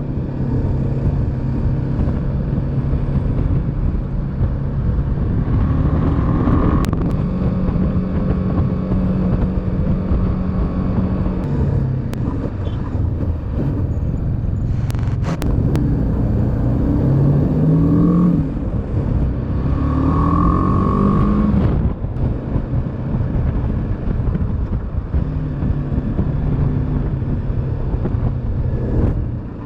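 Motorcycle engine running on the road with a steady low rumble. It rises in pitch twice, a little past the middle, as it accelerates.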